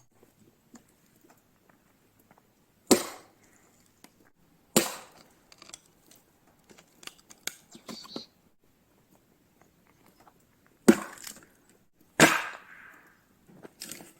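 Axe splitting firewood: four sharp wooden strikes, the second pair close together near the end, each with a short crack or rattle after it, and smaller knocks and cracks of wood between them.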